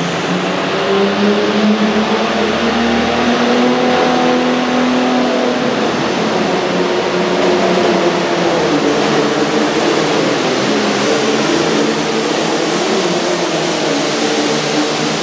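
Super Farm pulling tractor's turbocharged diesel engine running at high revs under load, with a dense roar and a wavering engine note throughout.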